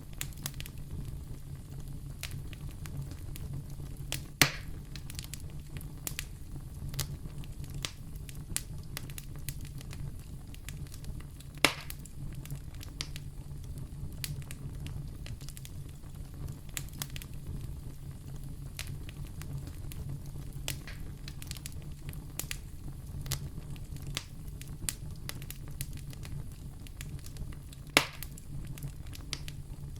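Wood fire crackling in a fireplace: frequent small crackles over a steady low sound, with three loud sharp pops spread across the stretch.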